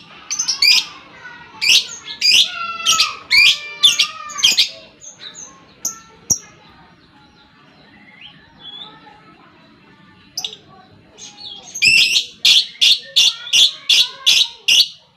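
Lovebird ngekek: shrill, rapidly repeated chattering calls. They come in two bouts, one over the first four and a half seconds and a faster run of about three to four calls a second starting about twelve seconds in, with short scattered chirps between.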